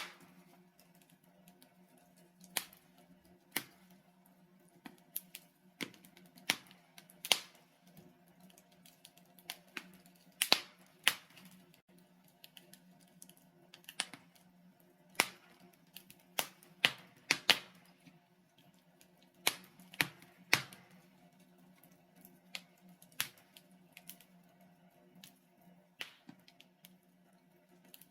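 Wood fire of burning logs in a fireplace crackling: irregular sharp pops and snaps, a few much louder than the rest, over a faint steady low hum.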